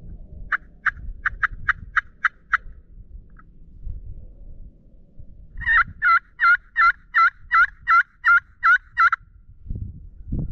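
Turkey yelps in two runs: about seven short, sharp yelps, then after a pause a louder run of about ten yelps, each note breaking from high to low.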